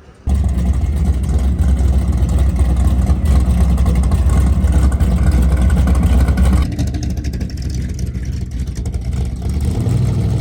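A car engine idling close by with a deep, steady rumble, setting in abruptly at the start. About seven seconds in it drops to a lower, quieter idle.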